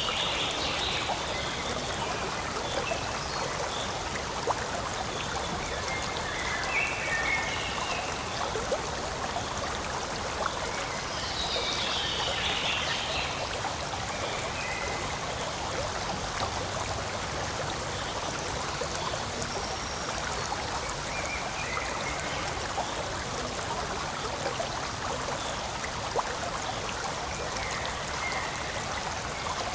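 Forest stream running steadily, water trickling and flowing over rocks. A few brief higher-pitched sounds stand out over the rush, near the start, around 6 and 12 seconds in, and late on.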